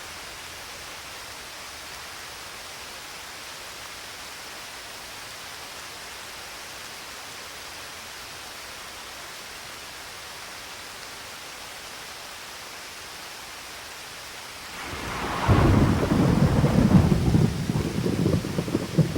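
Steady rain hiss, then about fifteen seconds in a sudden loud crack of thunder that rolls on as a rumble.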